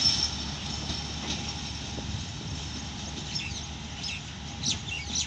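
Pakistan Railways Subak Raftar railcar train moving away down the track, heard as a low steady rumble. A few bird calls come in near the end.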